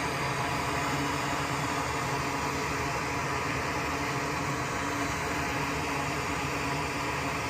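Steady, even whooshing hiss of a small blower running without pause.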